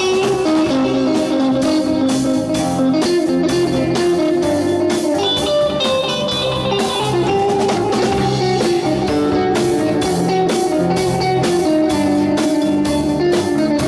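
A band playing without vocals: a guitar playing a melody of held notes over a pulsing bass line and a steady drum beat.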